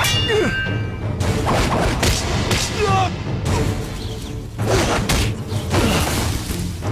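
Dramatic film soundtrack music under a string of sudden thuds and impact hits, roughly one a second.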